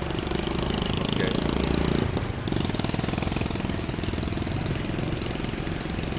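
Motorbike engine running steadily while riding, heard from on the bike, with its sound easing briefly about two seconds in.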